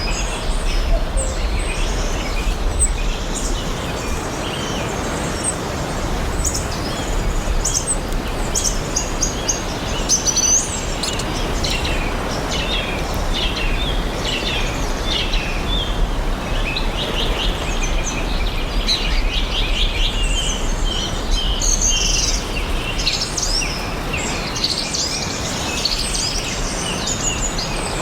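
Forest birds chirping and singing, many short chirps and trills overlapping, over a steady background hiss with a low rumble.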